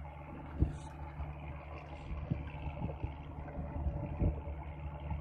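An engine running with a steady low hum, with a few short knocks over it, the loudest about half a second in.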